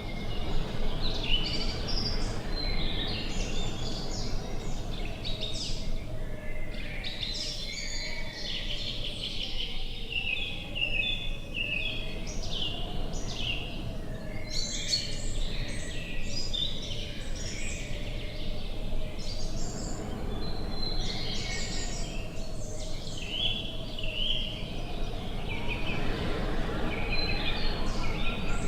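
Many small birds chirping and singing at once, in quick overlapping calls, over a steady low rumble of wind.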